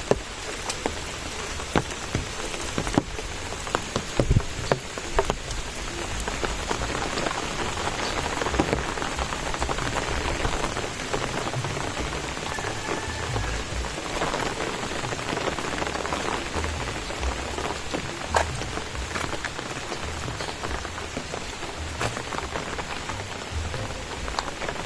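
Steady rain falling, with sharp drop hits landing close by, most frequent and loudest in the first few seconds.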